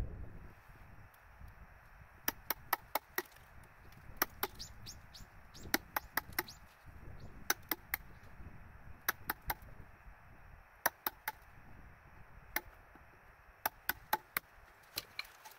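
Hammer tapping a chisel: sharp strikes in quick groups of two to four, with pauses between the groups.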